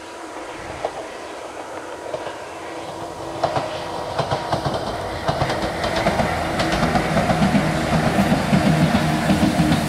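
Two-car JR 103 series electric train approaching and running past, growing steadily louder, its wheels clacking over rail joints from about three and a half seconds in.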